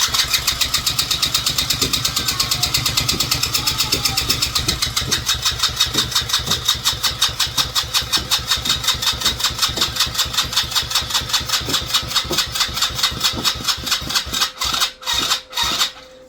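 Small engine being cranked over by its electric starter at an even chug of about six compressions a second, without catching, breaking off raggedly near the end. The engine won't fire on a weak battery.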